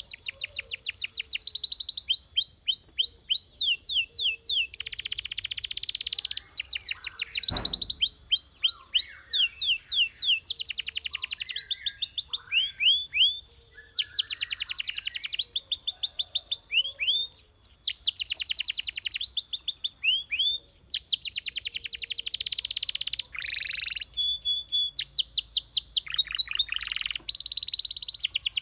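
Belgian canary singing a run of phrases, each a rapid trill of repeated notes lasting a second or two, with short pauses between them. A single sharp knock comes about eight seconds in.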